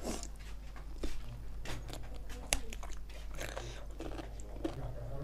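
Close eating sounds of biting into and chewing a spicy chicken piece: wet mouth clicks and smacks at irregular intervals, with one sharper click about two and a half seconds in.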